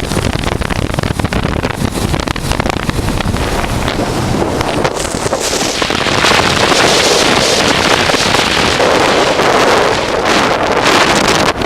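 Wind rushing over the microphone of a riding motorcycle, a 1988 Honda Transalp, with engine and road noise underneath. The wind rush swells louder about five to six seconds in.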